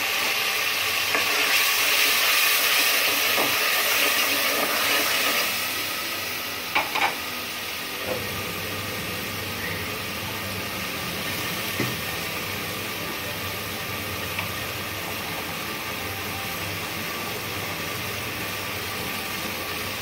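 Onion-tomato masala frying in oil in an aluminium pot, sizzling with a steady hiss that is loudest for the first five seconds and then settles lower. Two sharp clicks come about seven seconds in, and a low steady hum runs underneath in the second half.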